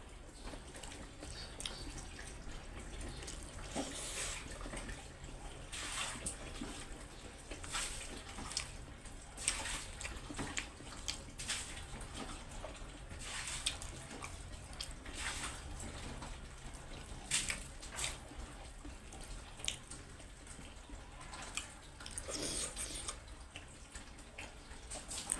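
Close-up wet eating sounds of a person eating rice and pork curry by hand: moist chewing and lip smacks, with scattered short clicks, plus the soft squish of fingers mixing rice.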